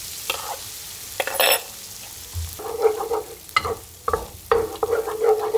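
Beaten eggs sizzling as they are poured into a hot pan of frying shrimp, with a few light clicks. From about halfway in, a wooden spatula scrapes and stirs through the setting eggs in uneven strokes.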